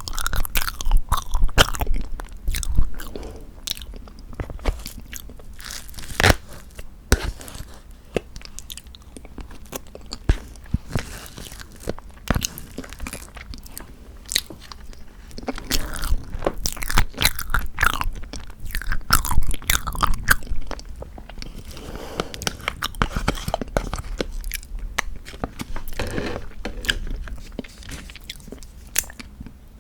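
Close-miked eating of tofu tiramisu: bites and chewing with many short, wet mouth clicks and smacks, going on throughout.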